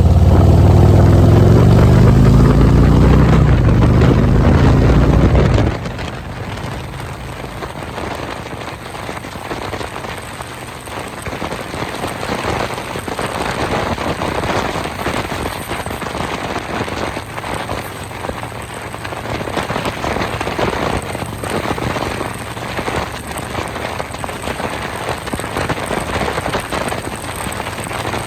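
Harley-Davidson Road Glide's V-twin engine accelerating, its pitch rising, then cut off suddenly about six seconds in. For the rest, a steady rushing noise with crackles.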